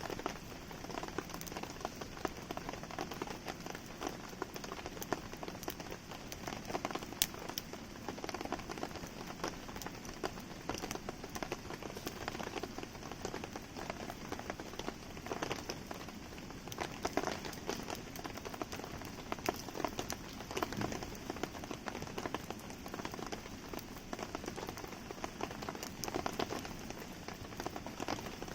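Steady rain falling and pattering, with scattered sharp pops and crackles from a wood campfire burning in the rain.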